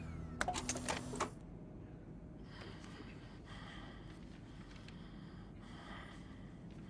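A last brief bit of speech over a low music drone that ends about a second in, then quiet room tone with faint soft sounds now and then.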